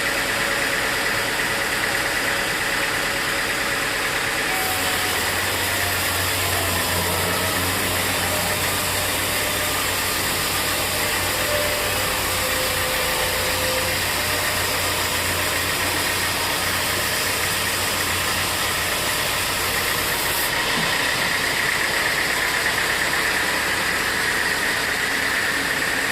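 Sawmill machinery running steadily. A deeper hum and a hiss join in about four seconds in and stop a few seconds before the end.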